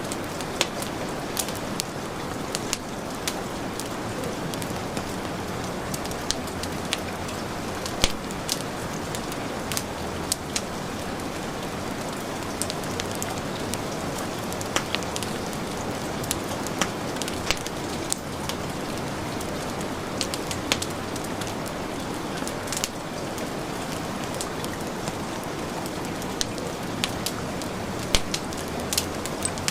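Steady heavy rain mixed with a wood fire crackling, its sharp pops and snaps scattered irregularly over the rain's even hiss, one louder pop about eight seconds in.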